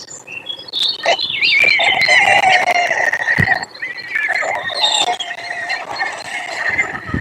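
White stork chicks begging: a long, wavering, whining call with several tones at once, running from about a second in to the end.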